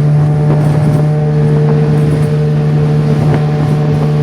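A motorboat's engine running at a steady, unchanging pitch, a constant drone heard from on board.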